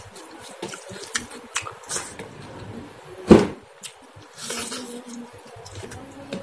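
Eating rice and chicken curry by hand: fingers squishing and mixing the wet rice on the plate, with soft clicks and mouth noises, and one loud wet smack about three seconds in as a handful goes into the mouth.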